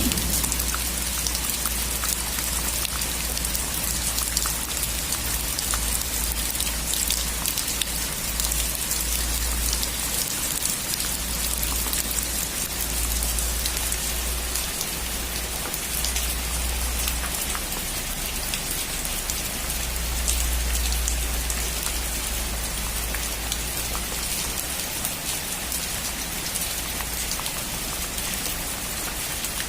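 Steady rain falling on a roof: a dense, even hiss with many small drop ticks over a low steady rumble.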